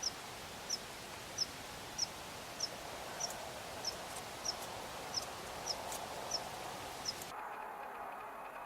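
A bird calling one short, high chirp over and over at an even pace, roughly every two-thirds of a second, over steady outdoor background noise; the calling stops about seven seconds in.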